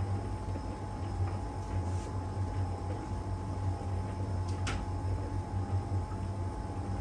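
LG heat pump dryer running mid-cycle, drum turning the load: a steady low hum with a constant thin whine over it. A few light ticks of the tumbling laundry, and one sharper click a little before five seconds in.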